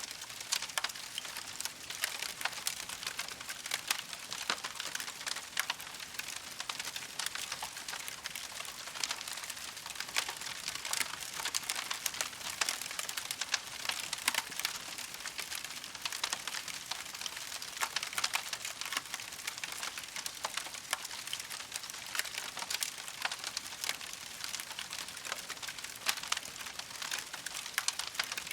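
Wood campfire burning with a constant dense crackle of small pops and snaps over a soft hiss.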